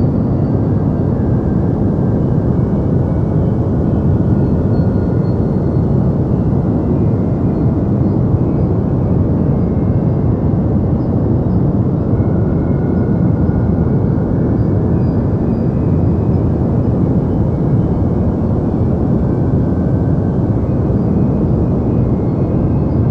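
Deep white noise: a steady, even rush of noise weighted toward the low end, without change or break.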